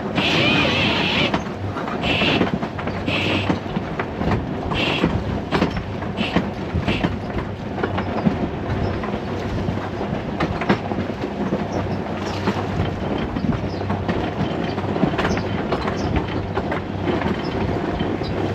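Sailboat motoring in gusty wind: the auxiliary engine runs with a steady low hum under wind and water noise, with scattered knocks and rattles and a few sharp hisses in the first few seconds.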